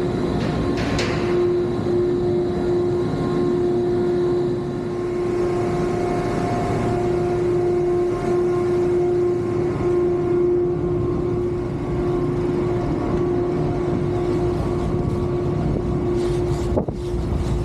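Steady mechanical drone with a constant, unchanging hum, like vehicle or ship machinery.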